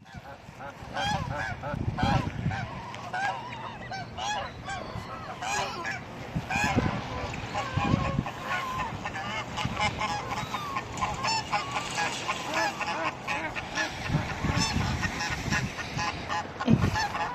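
A flock of gulls and ducks calling over one another, many short honking and squawking calls overlapping, with a few low rumbles.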